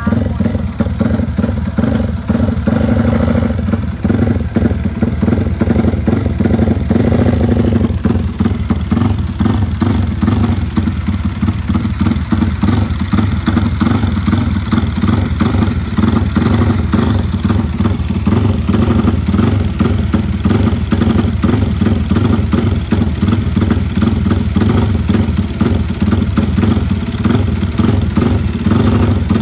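Yamaha Vixion drag-race motorcycle's single-cylinder four-stroke engine running steadily and loudly, its firing pulses coming fast and even. Its tone shifts a little about 4 and again about 8 seconds in.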